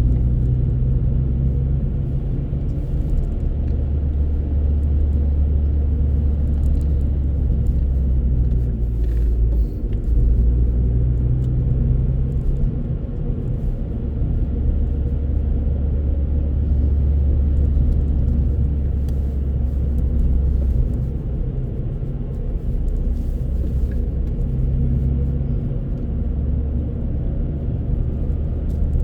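Car driving on the road: a steady low rumble of engine and tyres that swells and eases every few seconds.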